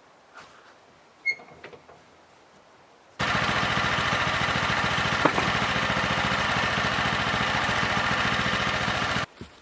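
A small engine running steadily with a rapid, even beat. It starts abruptly at full loudness about three seconds in, stops just as abruptly near the end, and has one sharp knock partway through.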